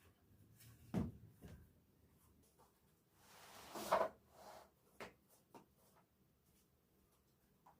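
Household handling sounds: a sharp knock about a second in, a short swelling scrape or rustle near the middle, then a couple of light clicks.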